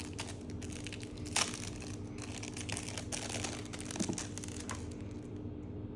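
Packaging rustling and crinkling as the small parts are handled, with many small clicks and one sharper click about a second and a half in.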